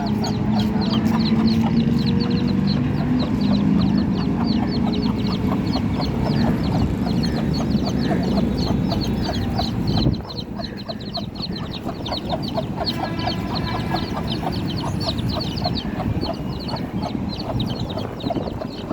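A brood of chicks peeping constantly in quick, high rising chirps, with a hen's clucking among them. A steady low sound underneath cuts off about ten seconds in.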